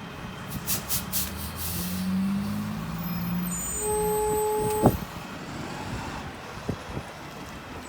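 Mack LR garbage truck's diesel engine running, its pitch rising over the first few seconds, with a few short hissing bursts early on. About four seconds in, a steady beep-like tone sounds for about a second and is cut off by a sharp knock.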